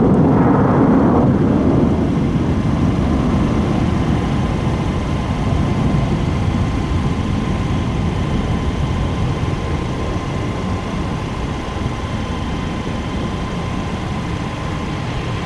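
Jet airliner's engines rumbling as the aircraft moves away, the noise loudest in the first couple of seconds and then slowly fading, with a faint steady whine underneath.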